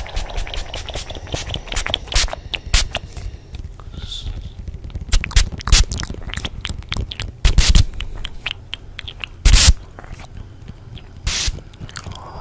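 Close-up ASMR trigger sounds layered together: irregular crisp clicks, taps and scratches at an uneven pace, with a few louder, longer scrapes about seven and a half, nine and a half and eleven seconds in.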